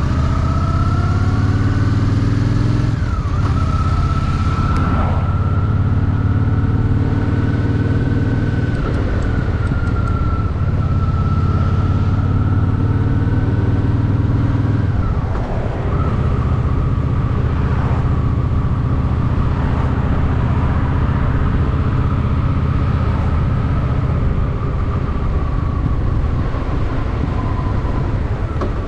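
Honda Shadow VT750's V-twin engine under way, its pitch rising as it pulls at the start. The engine note dips sharply about three seconds in and again about halfway through, as it shifts up, then holds a steady cruising note.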